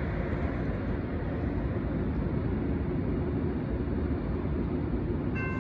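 Steady low rumble of an approaching Union Pacific freight train. Near the end the grade-crossing bell starts ringing as the crossing's warning activates.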